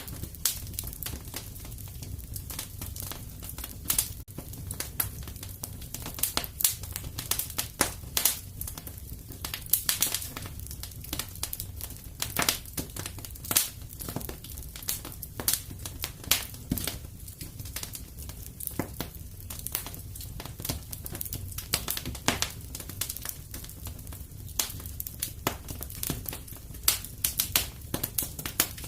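Wood fire crackling and popping in a fireplace: irregular sharp snaps, several a second, over a low steady rumble of the flames.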